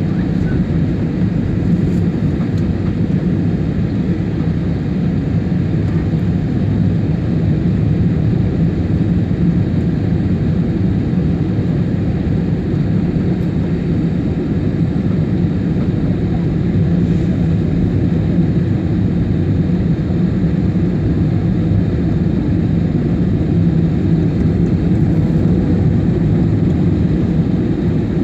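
Steady engine and airflow noise of an IndiGo Airbus A320-family airliner heard from inside the passenger cabin, a constant low rumble with no change in level.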